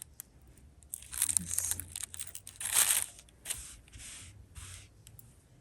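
Crinkling and rustling of packaging being handled, in a handful of short noisy bursts, the loudest about three seconds in.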